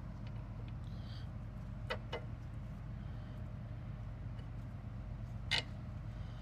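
A few sharp clicks of metal parts and tools knocking against each other while a car's rear suspension is being reassembled: two close together about two seconds in, one more near the end, over a steady low hum.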